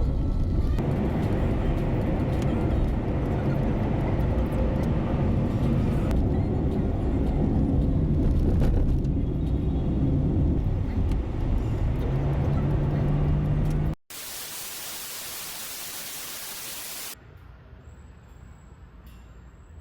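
Car cabin noise while driving: a steady low rumble of engine and road. It cuts off abruptly about two-thirds of the way through and gives way to a few seconds of even hiss, then quieter background.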